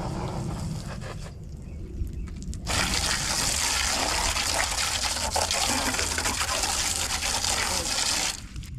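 A steady rush of water that starts suddenly about three seconds in and cuts off shortly before the end.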